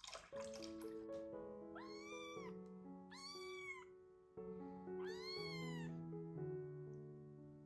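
A kitten meowing three times, each call about a second long and rising then falling in pitch, over soft piano music.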